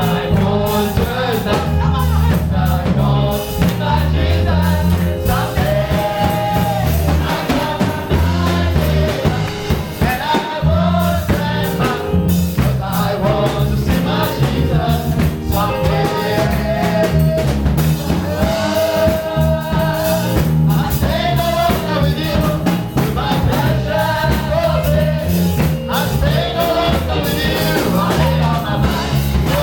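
Gospel praise music: singing over a band with a drum kit keeping a steady beat.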